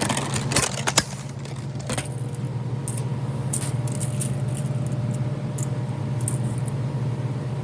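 Light metallic clicks and clatter, a quick cluster in the first two seconds and then a few scattered faint ticks, over a steady low hum.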